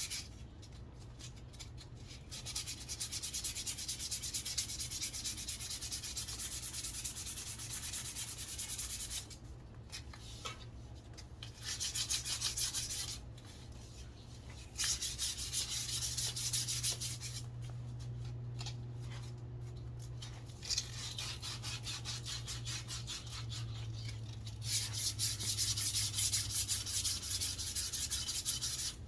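Sandpaper rubbed quickly back and forth along a wooden walking stick, in spells of rapid rasping strokes with short pauses between. The spell near the end is the loudest. A steady low hum runs underneath.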